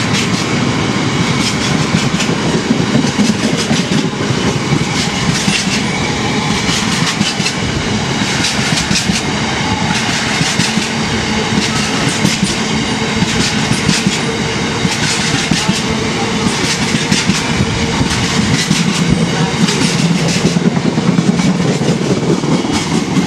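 Freight train's oil tank wagons rolling past at low speed, their wheels clattering over the rail joints in a steady run of clicks and clunks.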